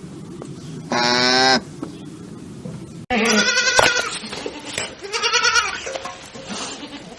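Goats bleating: one steady, loud bleat about a second in, then after an abrupt cut two loud wavering bleats about three and five seconds in, with fainter ones after.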